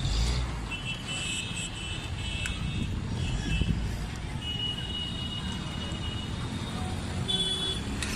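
Busy road traffic: vehicle engines rumbling steadily, with car horns honking in short high blasts several times.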